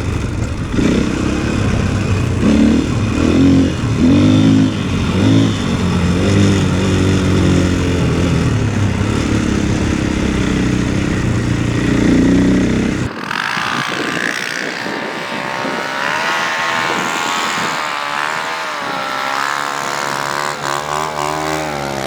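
Snowbike's single-cylinder four-stroke 450 cc engine revving up and down under load while riding. About two-thirds of the way through the sound changes abruptly to a thinner, higher-pitched engine note that keeps rising and falling.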